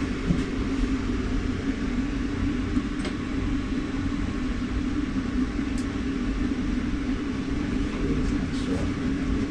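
Steady low mechanical hum with a rumble beneath it, with a few faint light clicks.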